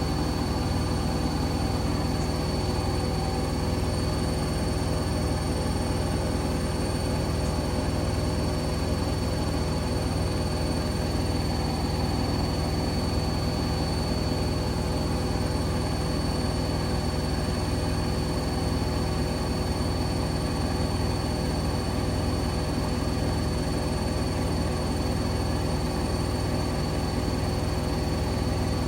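Hoover Link front-loading washing machine spinning at full speed, 1400 rpm: a steady hum with several held high tones, unchanging throughout.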